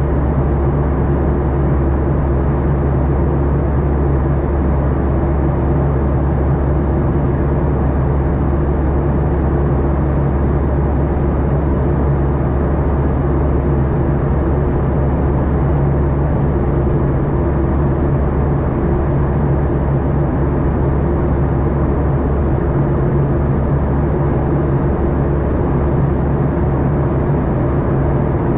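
Steady drone of a Boeing 737-800's engines heard inside the passenger cabin, a constant low rumble with an even hum and no change in pitch or level.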